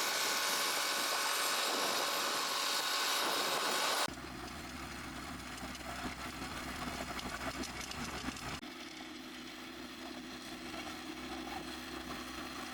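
RIPPA RS06-2 skid steer loader running with its land-clearing attachment. A hissy, high-pitched machine noise changes abruptly about four seconds in to a quieter, lower engine hum, and shifts again a few seconds later.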